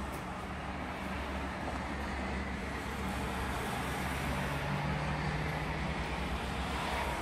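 Train pulling away from the station along the track: a steady rumble and hiss with a low hum that swells about four seconds in.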